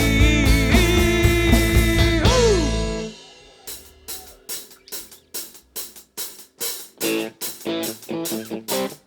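Instrumental break in a rock song: electric guitar and drum kit play together, a sliding note falls away and the full band cuts off about three seconds in. After that only an even ticking beat, about four ticks a second, carries on, and guitar chords come back in over it near the end.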